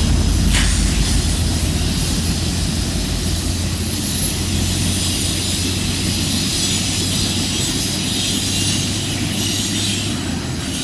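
Passenger cars of a CN business train rolling past on jointed track, with steady wheel-on-rail noise, a high hiss and a low hum. There is one sharp clank about half a second in, and the sound slowly eases as the train moves on.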